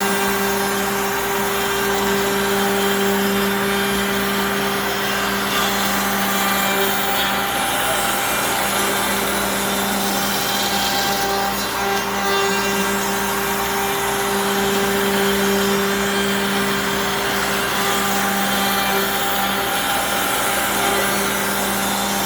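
CNC machine cutting a workpiece: its spindle runs with a steady hum under a continuous cutting hiss, holding an even level throughout.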